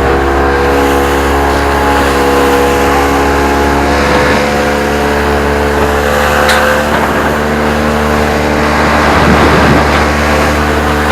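A boat's outboard motor running steadily at high throttle, its pitch holding level, over a rushing wash of wind and water.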